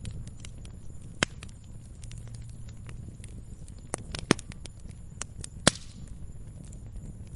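Wood fire crackling in a fireplace: scattered sharp pops and snaps over a low steady rumble, the loudest pops a little over a second in and twice more between four and six seconds in.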